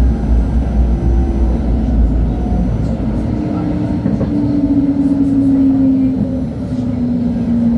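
LHB TW2000 light-rail car running on the track, heard from inside the car: a steady low rumble with a motor tone that falls slowly in pitch over the last few seconds as the car slows.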